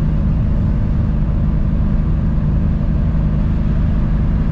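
BMW N54 3.0-litre straight-six cruising at steady revs, heard from inside the cabin. It has a ticking that is worse at constant revs, which the occupants suspect is an exhaust or turbo manifold leak.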